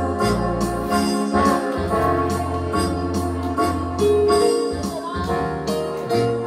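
Instrumental accompaniment for a boat-song duet, with electronic organ-style keyboard over held bass notes and a steady beat.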